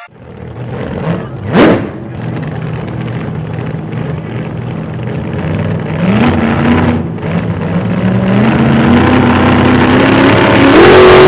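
A car engine accelerating hard, its pitch climbing in steps and the sound growing louder. There is a brief loud rising whoosh about a second and a half in.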